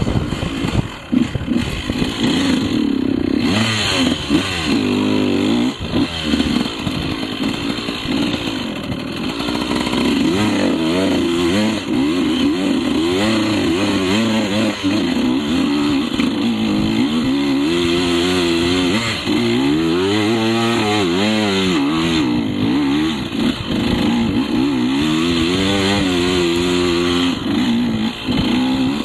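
KTM 150 two-stroke enduro motorcycle engine being ridden, its pitch rising and falling over and over as the throttle is opened and closed.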